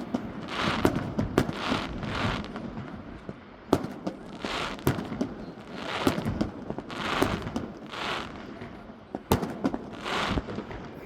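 Fireworks going off: repeated bursts of crackling and hissing, with a few sharp bangs in between.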